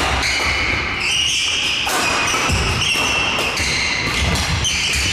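Badminton doubles rally: court shoes squeaking repeatedly on the hall floor, with footfall thuds and a few sharp racket strikes on the shuttlecock.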